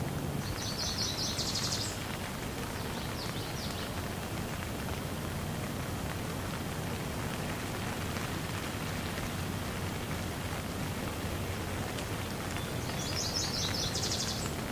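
Steady rain falling and splashing into puddles on a wet surface. A bird's high, rapid trill comes a few times, near the start and again near the end.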